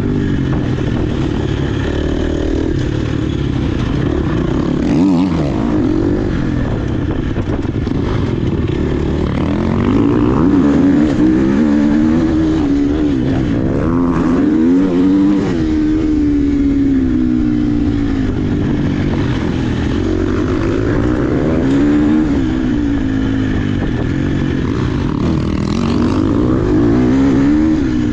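Dirt bike engine being ridden hard, its pitch repeatedly climbing under throttle and dropping off between shifts and corners. A steady low rumble of wind and ground noise runs underneath.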